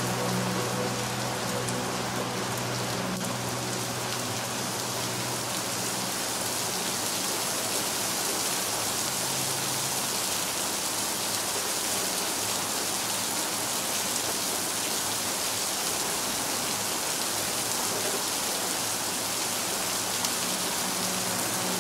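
Steady, dense rain falling, a continuous even hiss of drops. Soft low held musical tones sit under it at first and fade out after about five seconds.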